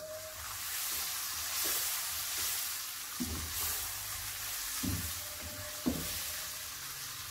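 Mushrooms sizzling steadily as they fry in butter and oil over a low-to-medium flame to brown. A wooden spatula stirs them, scraping and knocking against the pan a few times.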